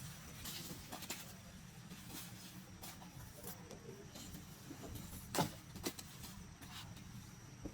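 A few scattered knocks and clicks over a steady low hum, the loudest two close together about five and a half seconds in.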